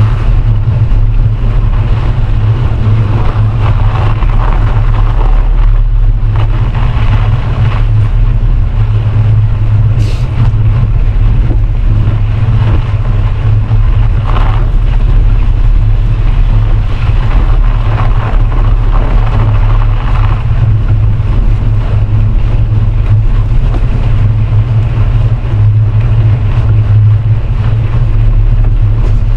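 Loud, steady wind buffeting on the microphone of a rider cycling along.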